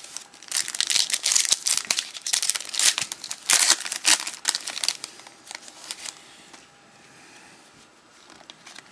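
Foil wrapper of a baseball card pack being torn open and crinkled, a rapid run of crackles that stops about five seconds in.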